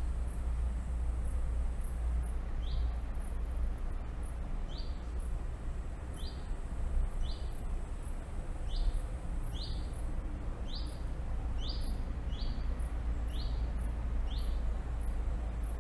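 A small songbird repeating one short, high note about once a second, over a steady low rumble of outdoor background noise.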